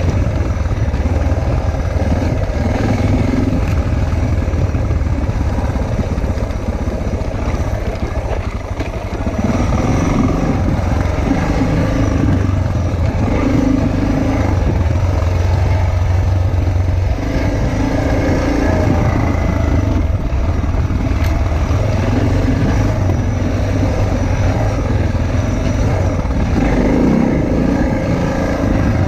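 Motorcycle engine running while riding, its note rising and falling every few seconds with the throttle, over a steady low rush of wind.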